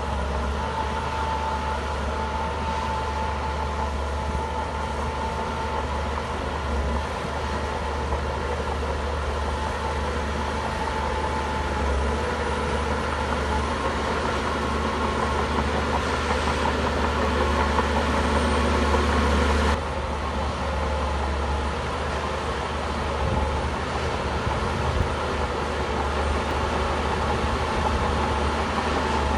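Shantui crawler bulldozer's diesel engine running steadily while working, growing slightly louder before a sudden drop in level about twenty seconds in.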